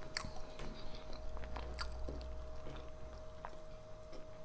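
Close-up chewing and mouth sounds of people eating fried plantain and yam, picked up by a clip-on microphone, with scattered small clicks of forks on plates.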